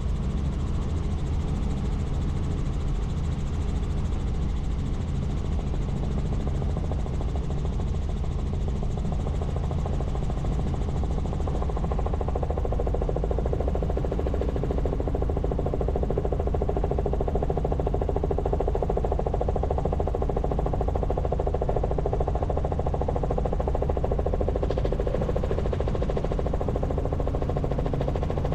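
Helicopter in flight: the rotor and engine run as a steady drone with a low, even hum.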